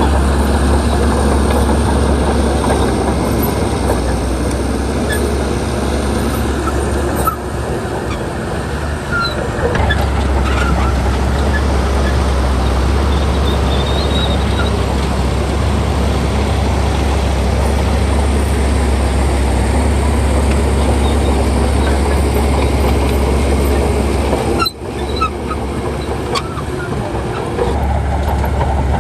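Heavy diesel earth-moving machinery running steadily and loudly, with two sudden short dips in level, one about a quarter of the way in and one near the end.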